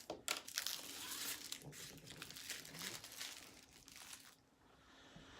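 Small plastic bags of diamond painting drills crinkling as they are handled, dying away after about four seconds.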